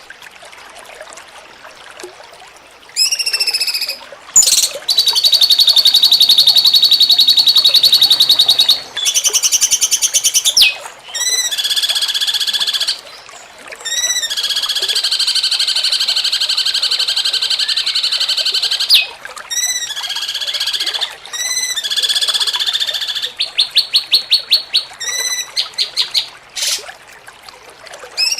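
Cucak cungkok bird-song training audio: after a quiet first few seconds, long loud buzzing trills lasting several seconds each, broken by short clipped notes, with a quick run of a dozen or so pulsed notes near the end.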